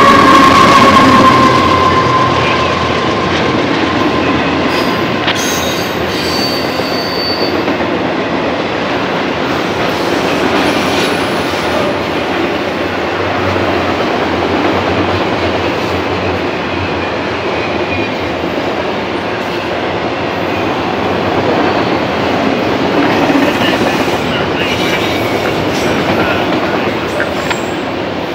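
Freight train of autorack cars rolling past close by: a steady rumble and rattle of steel wheels on the rails, with a few brief thin wheel squeals. At the start, the tail end of the lead locomotive's multi-note horn slides slightly lower in pitch and fades within about two seconds.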